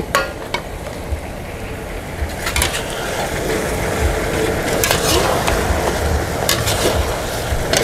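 Chicken drumsticks sizzling in garlic sauce in a wok, growing louder about two seconds in, while a metal spatula stirs and scrapes them, clinking sharply against the pan several times.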